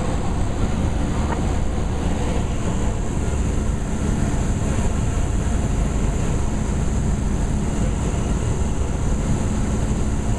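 Cessna 172 Skyhawk's piston engine and propeller running steadily in cruise, an even drone with no change in pitch.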